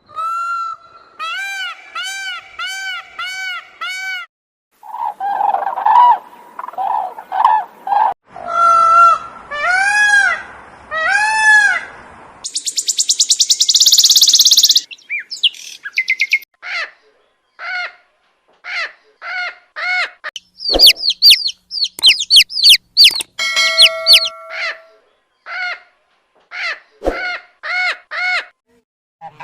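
Calls of several different birds in turn, each kind repeated: runs of arched, squawking calls with rich overtones, a buzzy stretch in the middle, then quick series of short calls.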